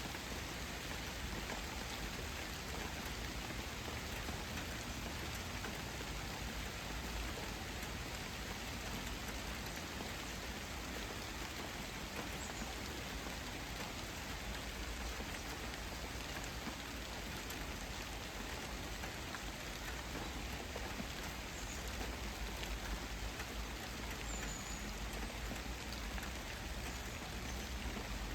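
Steady rain falling on surfaces, an even hiss with scattered faint ticks of single drops.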